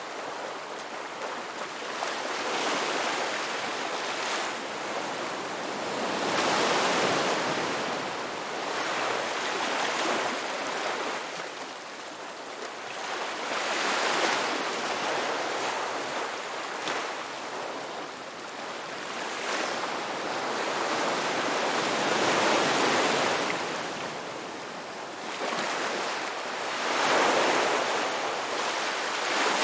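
Ocean waves washing onto a rocky beach, each wave swelling in and drawing back every few seconds.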